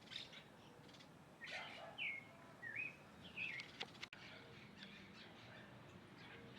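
Birds chirping: a cluster of short, quick call notes, some sliding up or down in pitch, in the first four seconds or so, then only faint background calls.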